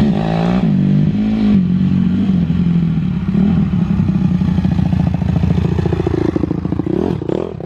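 A small off-road vehicle's engine, just started, revved in a few short blips in the first second and a half, then running at a steady idle with a brief rise in revs near the end.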